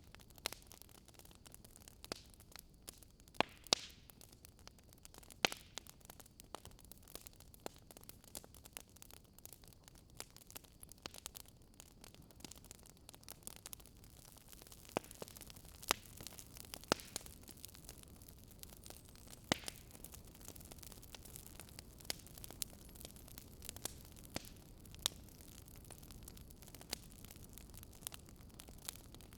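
Wood fire crackling in a fireplace: irregular sharp pops and snaps over a faint steady hiss, with a few louder snaps scattered through.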